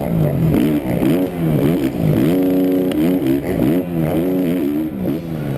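Motocross bike engine revving hard, its pitch climbing and dropping again and again as the rider works the throttle and shifts gears.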